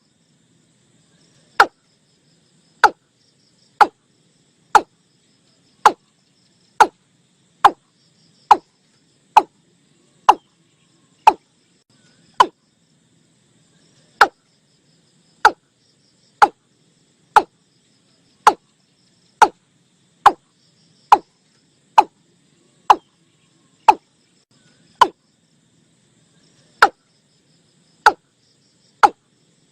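Watercock calling: a steady series of short notes, each dropping sharply in pitch, about one a second with two brief pauses. This is a recorded call played as a lure to draw watercocks in.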